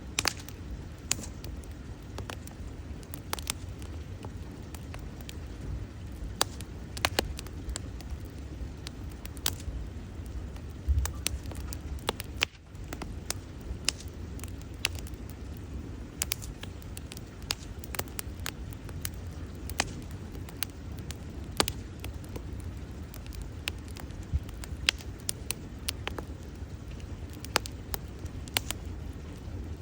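Wood bonfire burning, the logs crackling and popping in sharp, irregular snaps over a steady low rumble.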